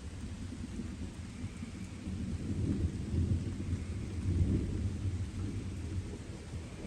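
Distant thunder rumbling over steady light rain. The low rumble builds a couple of seconds in, peaks past the middle and then eases off.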